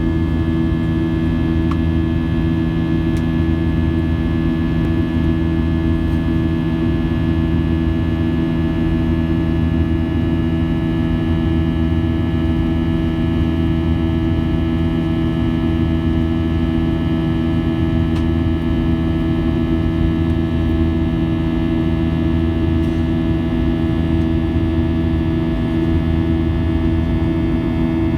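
A steady machine hum made of several fixed tones, unchanging in pitch and loudness.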